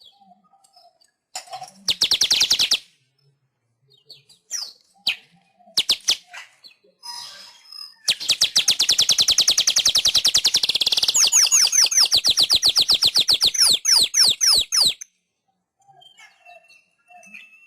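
Manyar (weaver bird) singing: a short burst of rapid ticking notes, then a fast chattering trill of about seven seconds that breaks into a run of quick downward-sweeping notes before stopping abruptly.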